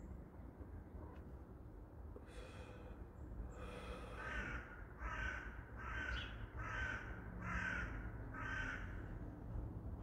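A bird calling: one call about two seconds in, then a run of six calls in a row, a little under a second apart.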